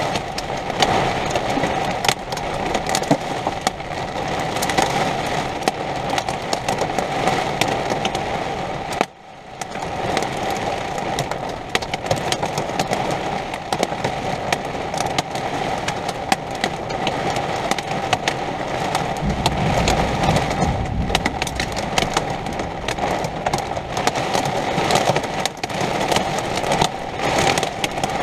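Thunderstorm downpour: heavy rain or hail pelting hard, a dense crackle of countless impacts. It drops out briefly about nine seconds in, and a low rumble swells around twenty seconds in.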